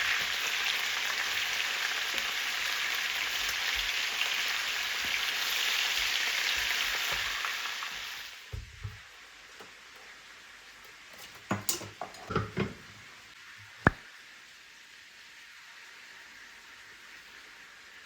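Food sizzling in a frying pan, a steady hiss that stops fairly suddenly about eight seconds in. A few light kitchen knocks and clatters follow, ending in one sharp click.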